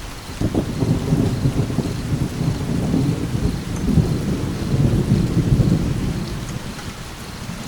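Rolling thunder over steady rain: a low rumble breaks in suddenly about half a second in, swells for several seconds and fades away near the end, with the rain's hiss underneath throughout.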